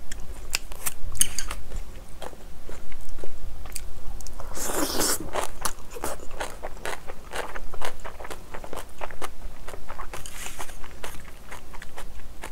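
Close-miked chewing and biting of spicy curry rice with napa cabbage kimchi: a steady stream of crisp crunches and wet mouth clicks, with two brief hissing rushes about four and a half and ten seconds in.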